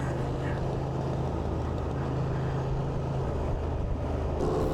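Single-cylinder motorcycle engine running steadily under way, with a low, even engine note that eases briefly about a second and a half in.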